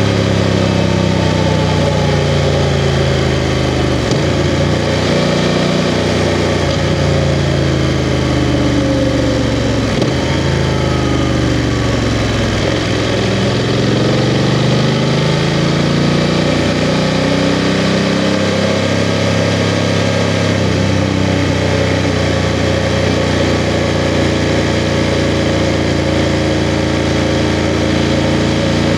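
BMW F 750 GS motorcycle's 853 cc parallel-twin engine, its pitch rising and then dropping several times as the bike accelerates and shifts gears, then running at a steady pitch for the last third.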